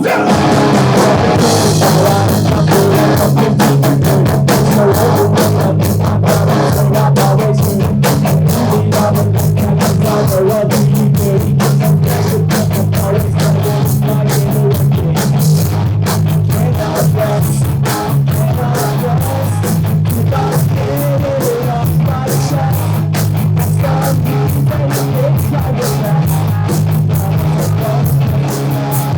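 Pop-punk band playing: loud distorted electric guitars and bass over fast, steady drumming.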